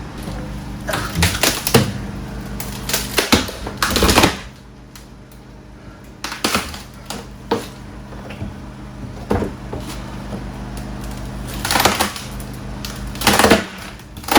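Pry bars levering up wooden floorboards: irregular knocks, clanks and cracking of wood in clusters every second or two, over a low steady hum.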